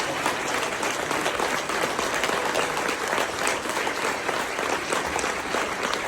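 Audience applauding steadily: a room full of people clapping, welcoming a newly installed president.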